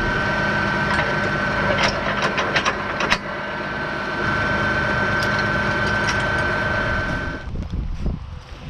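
John Deere 6155M tractor running with a steady high whine over its engine hum, with a few sharp clicks and rattles a couple of seconds in. The whine cuts out about seven and a half seconds in, leaving quieter, uneven rumbling.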